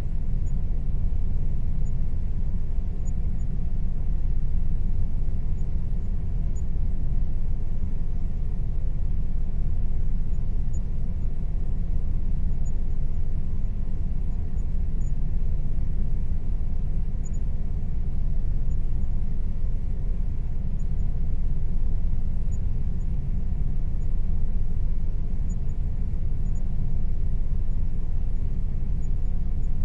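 Air conditioner running steadily: a constant low drone with a faint steady hum above it, with no change in level.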